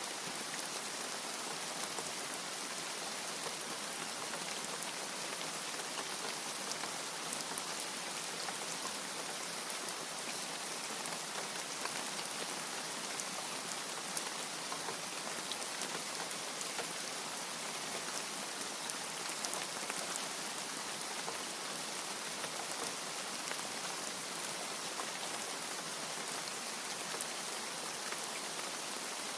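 Steady rain: an even hiss of falling water with scattered individual drop ticks, no thunder.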